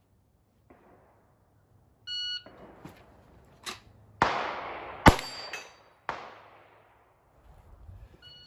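Shot-timer beep about two seconds in, then a few sharp pistol reports echoing off the range and a ringing clang of a steel plate being hit, the loudest about five seconds in. A second timer beep comes near the end.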